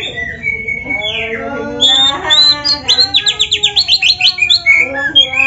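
Oriental magpie-robin (black-breasted kacer) singing a loud, varied song of gliding whistles, with a fast run of repeated chirps at about eight a second in the middle.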